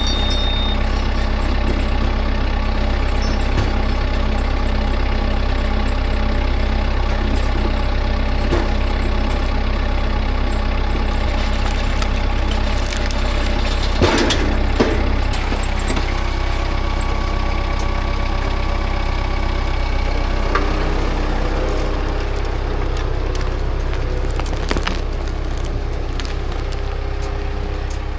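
Engine of a log-skidding machine running steadily while a 16-foot log is hauled out, with a few clanks partway through.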